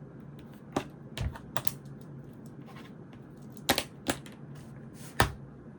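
Scattered sharp clicks and light knocks of stationery being handled on a desk, about six in all, two of them with a dull thud.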